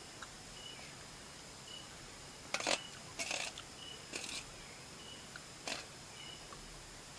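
Several short, sharp handling noises during cooking, the loudest about two and a half seconds in. Under them runs a faint, evenly repeated high chirp.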